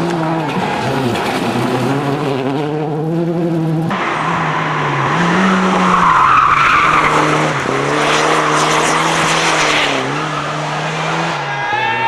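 Racing car engine revving hard, its pitch rising and falling with throttle and gear changes, with tyres skidding in the middle. The sound cuts abruptly to another shot about four seconds in.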